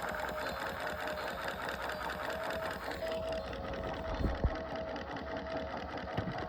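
Ocean Wonders toy aquarium's small motor and gear train running steadily, driving the moving fish and bubbles on new thin rubber bands: a rhythmic mechanical whir, the toy back in working order. A couple of low thumps about four seconds in.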